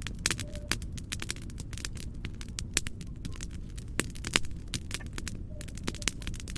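Wood fire crackling: irregular sharp pops and snaps, a few louder ones about three and four seconds in, over a steady low hiss and rumble.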